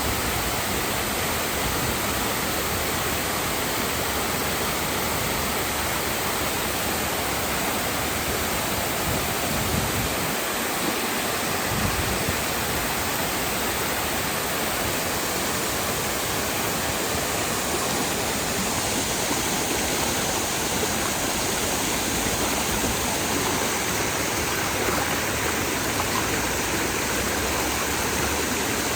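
Waterfall pouring steadily, an even rushing of falling water.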